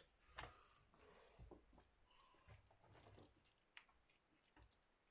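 Near silence broken by faint, scattered crunches and clicks of footsteps on demolition rubble, the sharpest about half a second in.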